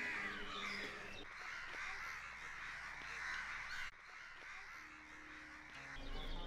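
Birds calling, many overlapping calls at once.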